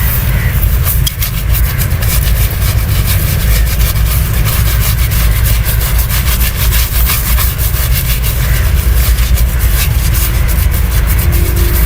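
Razor shaving a chest: many quick, scratchy strokes over skin and hair, over a steady low rumble.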